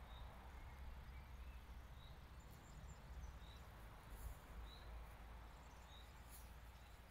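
Faint outdoor quiet: a bird repeats a short high chirp about every second and a half, over a low rumble.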